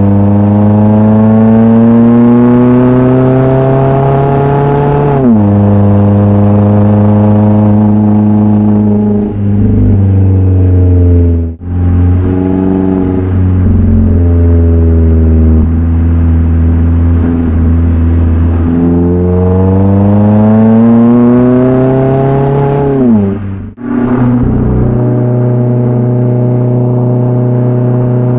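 Mazda Roadster's four-cylinder engine through an HKS aftermarket exhaust, accelerating under load: the exhaust note climbs steadily in pitch, drops sharply at an upshift about 5 seconds in, holds steady while cruising, then climbs again and drops at another upshift near the end.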